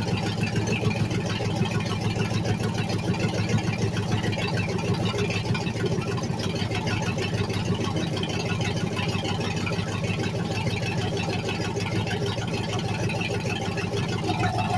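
Race car engine idling steadily.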